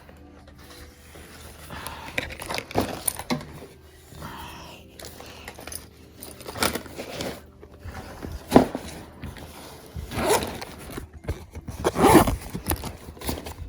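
Scattered handling noises: irregular knocks, scrapes and rustling, with a few louder knocks late on.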